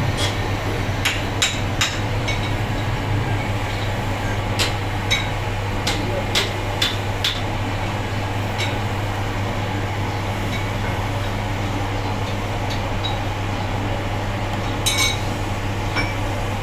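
Hand tools, a hammer and chisel, tapping on stone: about a dozen sharp, irregular taps, most of them in the first half, over a steady low hum.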